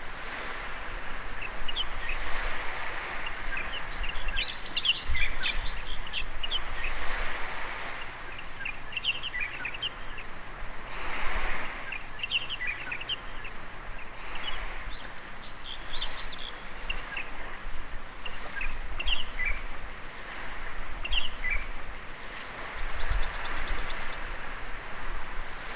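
Small birds chirping in many short calls over the wash of waves on a beach, which swells and fades every few seconds.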